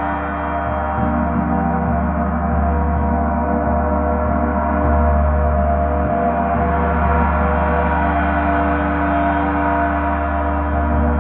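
A gong sounding continuously: a dense wash of many held tones over a deep hum, with no separate strikes standing out.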